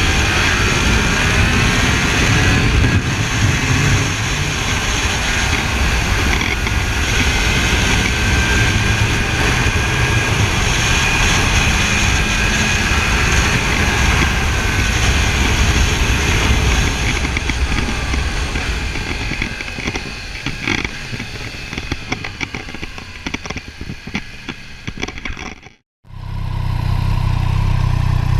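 Motorcycle engine running with a dense rushing noise and some rising and falling pitch early on, easing off later. Near the end the sound cuts out abruptly and a steady low engine note, like an idle, takes over.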